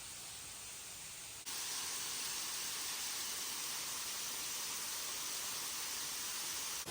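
Steady rush of a waterfall's falling water, a hissing noise that jumps louder about a second and a half in and then holds steady.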